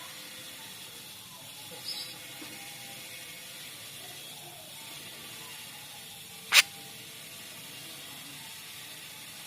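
Jalak Rio Rio bird calling in single sharp, very short notes spaced far apart: a faint high chirp about two seconds in, then one loud, piercing note about two-thirds of the way through, over a steady low hiss.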